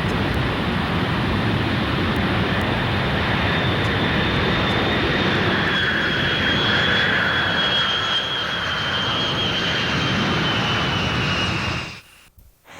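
Jet aircraft engines running loud and steady, with a high whine that slowly falls in pitch through the middle. The sound drops out abruptly near the end and then fades back up.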